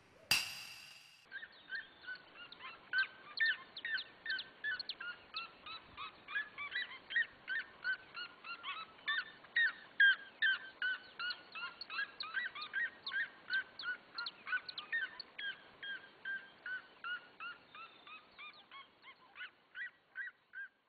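A short noisy burst at the start, then a flock of birds calling in quick, short chirps, several a second, thinning out and fading near the end.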